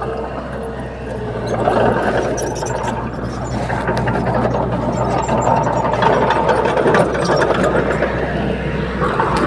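Komatsu D31P crawler bulldozer at work: its diesel engine runs steadily under a dense rattling and clicking of machinery. The sound grows louder about a second and a half in.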